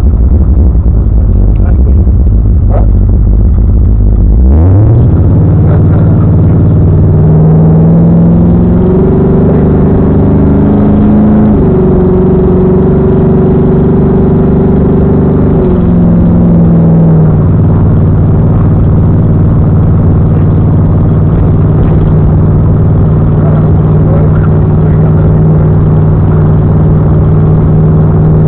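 Car engine running at a low idle, then revved up about four seconds in and held at raised speed, stepping higher twice before settling back down just past the middle to a steady fast idle.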